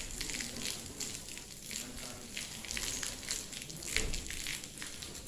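Dense, irregular crackling and ticking of volcanic ash rain pattering onto surfaces.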